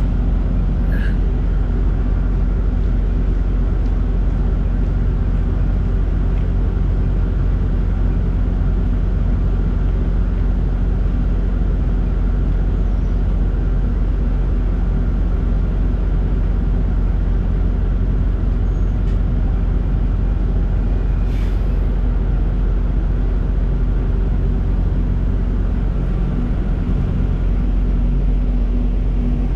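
Semi truck's diesel engine running at a steady, even speed, a loud constant hum with no change in pitch.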